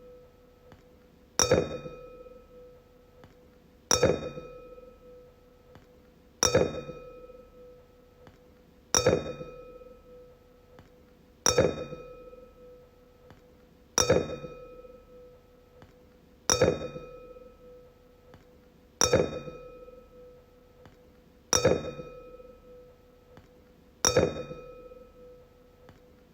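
A wine glass struck over and over, about once every two and a half seconds. Each strike rings with a clear tone and higher overtones that fade away before the next.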